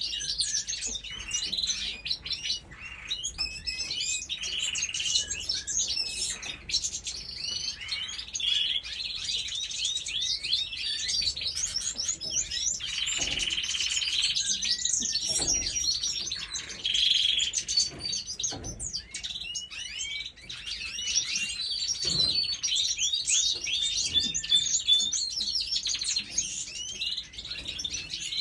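Many small birds chirping and twittering at once, a dense overlapping chorus of short high calls that never lets up.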